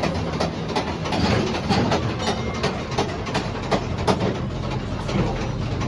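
Train rolling along its track, its wheels clicking over the rail joints about three times a second over a steady low rumble.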